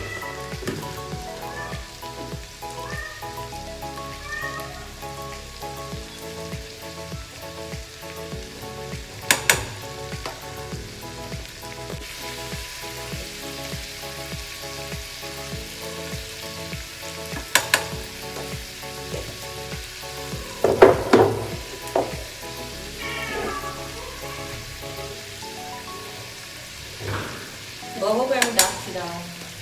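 Sliced onions, tomatoes and green peas sizzling steadily as they fry in oil in a pan, with a few sharp clicks of the spatula against the pan. About two-thirds of the way through, and again near the end, come short wavering pitched calls, the loudest sounds in the stretch.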